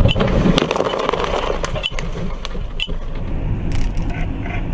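Car driving, with steady low road and engine rumble heard from inside the cabin and several sharp clicks and short squeaks over it.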